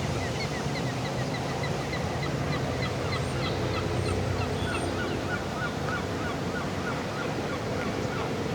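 Birds calling in quick series of short chirps, about four a second, with a lower-pitched series taking over partway through, over a steady low hum of distant city traffic.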